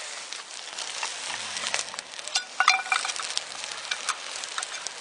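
Food sizzling and crackling in a pan or pot over a campfire, with many small pops and a brief ringing clink about halfway through.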